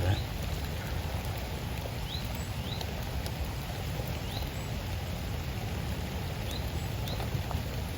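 Rain dripping and pattering in woodland over a steady low rumble, with a small bird now and then giving short, high, rising call notes.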